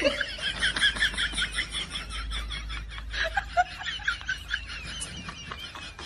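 Women giggling behind their hands, a quick run of short high-pitched notes.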